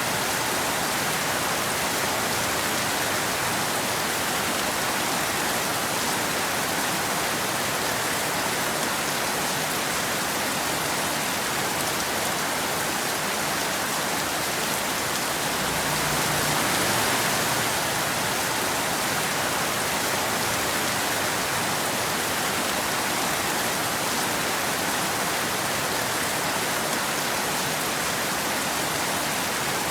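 Steady rain falling, an even hiss of many drops that swells a little about halfway through.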